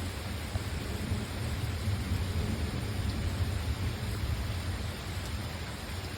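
Steady rain with low rolling thunder rumbling beneath it, the rumble swelling in the middle of the stretch before easing off.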